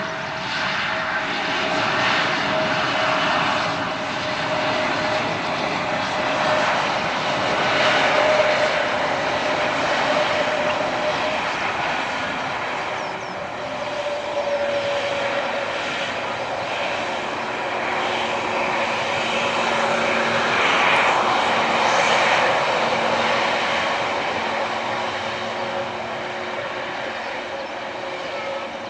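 Airbus A320-200 jet engines running: a steady whine over a broad rushing roar that swells and eases.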